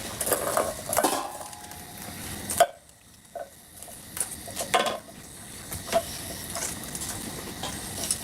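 Dishes, pots and utensils clinking and knocking, a scattered run of sharp clatters with the loudest one about two and a half seconds in, followed by a brief lull.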